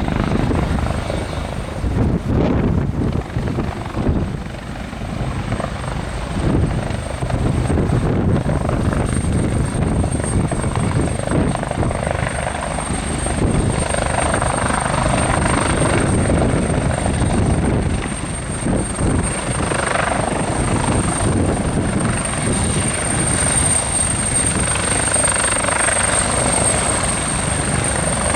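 Helicopter running: rotor thudding under a steady high-pitched whine, in gusty wind buffeting the microphone.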